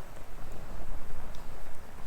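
Wood fire burning, with a few faint crackles over a fluctuating low rumble of wind buffeting the microphone.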